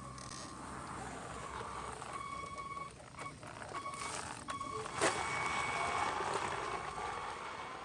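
Twin electric drive motors of a Xinlehong 9125 RC monster truck whining as it drives, the whine cutting in and out and rising and falling with the throttle over a rough haze of tyre noise, with one sharp knock about five seconds in.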